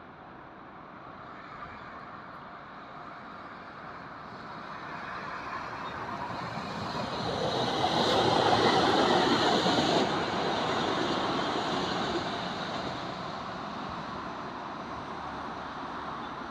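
A 227 series electric multiple-unit train passing on the line, its running noise building over several seconds, loudest about eight to ten seconds in, then slowly fading.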